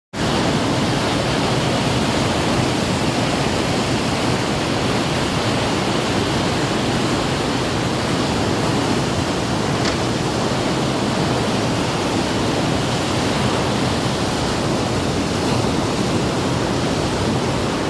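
Floodwater of the River Cam rushing through open sluice gates in a loud, steady roar of falling water, like a weir or waterfall.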